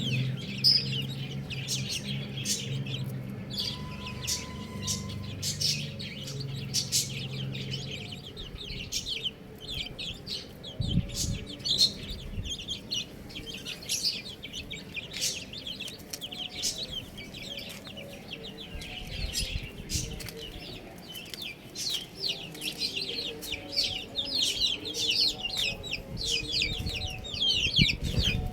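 A group of baby chicks peeping continuously: many short, high chirps overlapping in quick succession. A low, steady hum sits under them for the first eight seconds or so.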